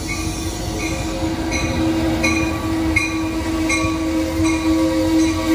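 CT Rail commuter train pulling into the station cab car first, with a low rumble from the wheels on the rails and a steady humming tone. Its bell rings about once every three quarters of a second, and the sound grows louder as the train draws alongside.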